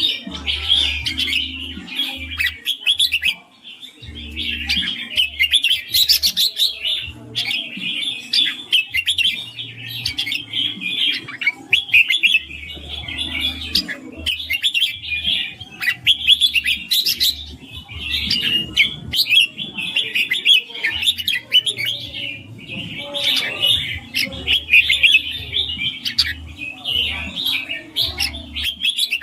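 Red-whiskered bulbuls singing, a dense, continuous run of quick, clear chirping phrases with hardly a pause.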